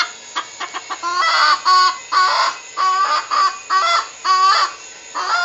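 Rooster giving a run of short, repeated clucking calls, about two a second.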